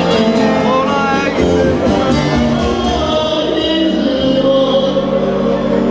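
Live Turkish folk music (a türkü) played by a band, with singing in the mix, between the sung lines of the song.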